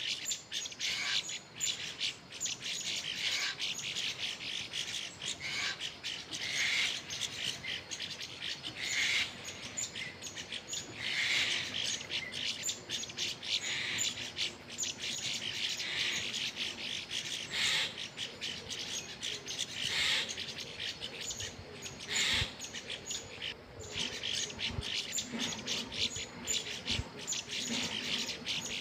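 Many small birds chirping at once, a dense, continuous run of short high-pitched chirps overlapping one another.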